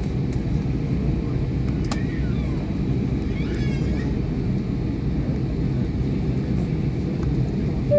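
Steady low rumble of an airliner cabin before takeoff: engine and air-conditioning noise heard from inside the cabin. There is a single click about two seconds in, and faint voices around the middle.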